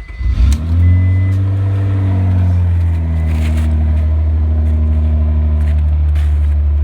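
Vehicle engine being started: it cranks briefly, catches about half a second in, flares up in revs and then settles into a steady idle. A high electronic chime beeps on and off during the start.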